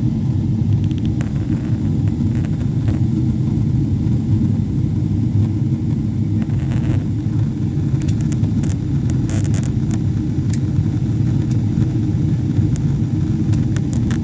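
Steady low rumble of an airliner's engines and airflow, unchanging in level, with a few faint clicks and ticks over it.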